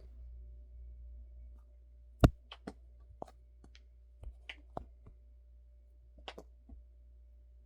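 Irregular light clicks and taps from a cat at play, with one sharp knock about two seconds in standing out above the rest, over a steady low hum.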